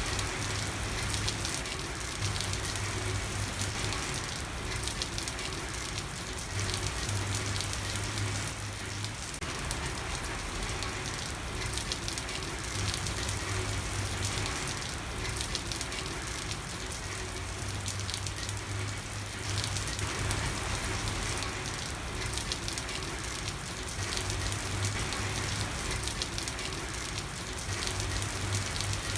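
Steady rain falling on a street, an even patter with no letup. A low hum comes and goes underneath it.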